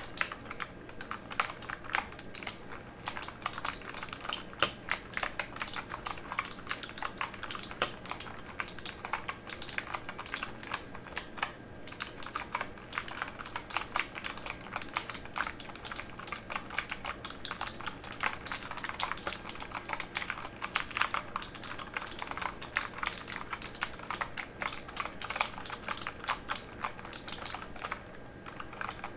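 Typing on a mechanical keyboard: a quick, irregular stream of sharp key clicks, which stops shortly before the end.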